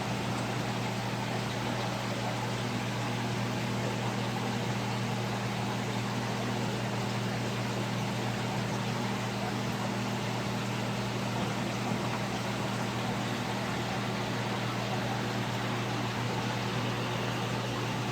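Steady low hum with an even hiss over it, unchanging throughout: running saltwater aquarium equipment such as pumps.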